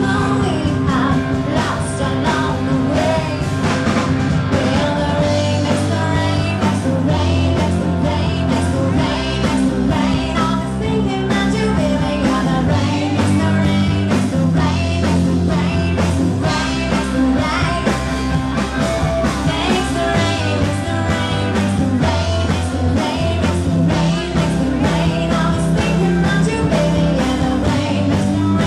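Live rock band playing an instrumental stretch, loud and steady: electric guitar over bass and a steady drum beat.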